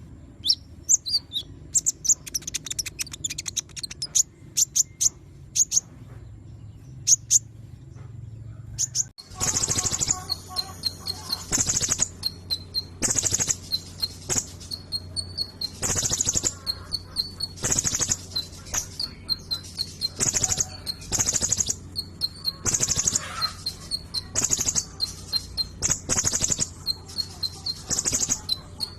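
A sunbird kept as "kolibri ninja" singing rapid, high twittering chirps. About nine seconds in, the sound changes abruptly to louder high chirps repeating about once a second, over a low steady hum.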